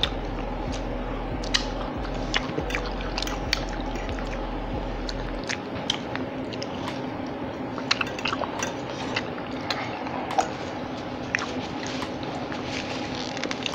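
Close-miked eating: biting into and chewing battered, deep-fried banana-blossom strips and rice, with short crunchy clicks scattered irregularly over a steady low hum.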